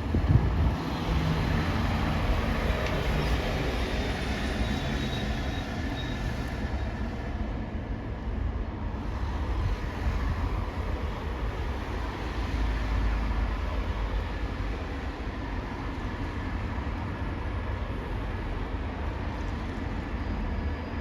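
Heavy engines running with a steady low rumble, the engine hum louder for the first few seconds.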